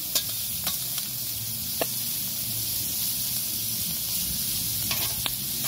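Pork chops and chorizo sizzling steadily on a hot cast iron griddle, broken by a few short sharp clicks.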